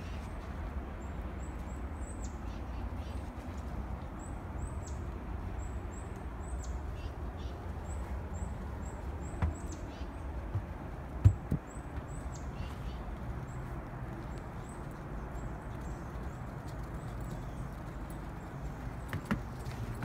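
A small bird chirping: short, high, down-slurred notes repeated every half second or so, fading out in the last third, over a steady low rumble. A single sharp knock stands out about eleven seconds in.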